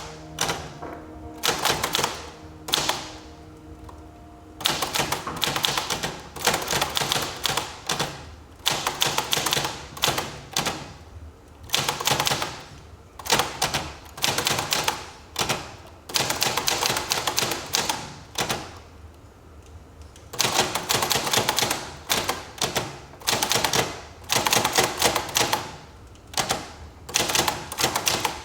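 Manual typewriter being typed on: fast runs of sharp key strikes in bursts, with short breaks between runs and two longer pauses, near the start and about two-thirds of the way through.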